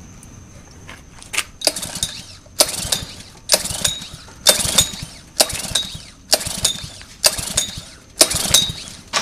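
Recoil starter on a Honda 5 hp OHV pressure-washer engine pulled about eight times in quick succession, roughly once a second. Each pull is a short, sharp burst as the engine turns over without catching; this is a cold start after the engine has sat for about a year.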